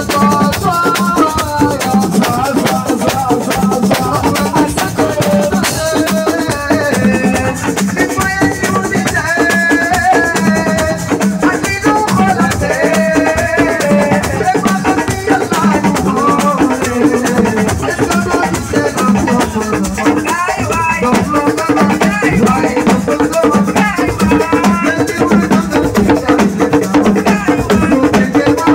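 Live assiko band music: dense drumming with rattles or shakers, and a melody line winding above the beat.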